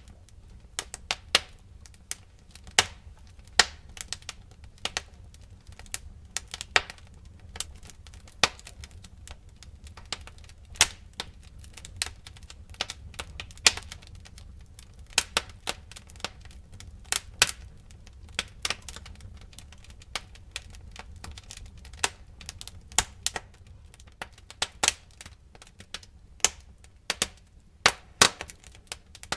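Wood fire crackling: irregular sharp pops and snaps, several a second at times, over a steady low rumble of the burning.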